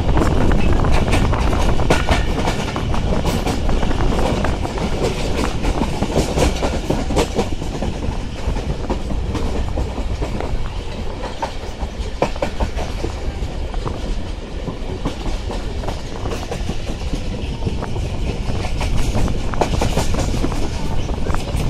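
Passenger train running along the track, heard from an open carriage window: a steady rumble of the wheels with rapid irregular clicking and clacking over the rail joints.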